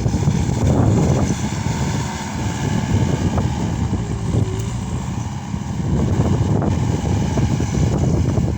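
Case SR200 skid steer's diesel engine running while loading, its level rising and falling as it works, with wind noise on the microphone.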